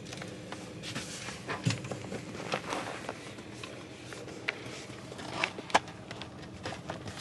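Scattered rustling, scraping and light clicking of hands handling objects at close range, with a couple of sharper clicks about five and a half seconds in.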